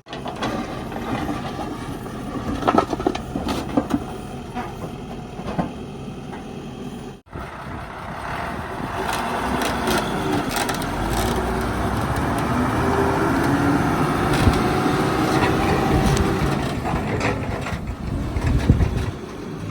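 Mahindra backhoe loader's diesel engine working under load, its pitch rising and falling, with repeated knocks and crunching from the digging. The sound breaks off abruptly about seven seconds in and resumes louder.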